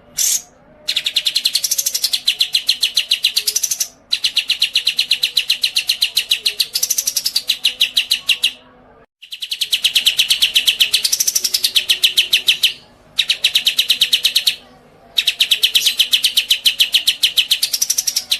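A songbird singing long, very fast trills of evenly spaced high notes, in bouts of about two to four seconds separated by short pauses, with a quick rise and fall in pitch partway through several bouts.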